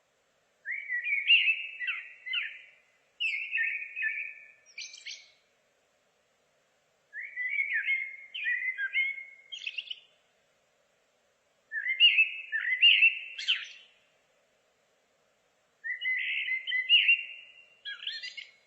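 A songbird singing, delivering about five warbled phrases of two to three seconds each with short pauses between them.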